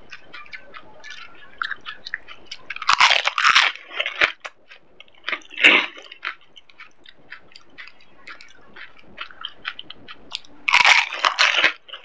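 Crisp pani puri shells filled with spiced water being bitten and chewed close to the microphone: two loud stretches of crunching, about three seconds in and near the end, with a sharp crack around the middle and quieter wet chewing between.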